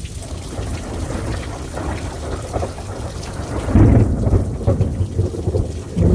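Steady rain falling, with a deep rumble of thunder breaking in suddenly about two-thirds of the way through and rolling on loudly to near the end.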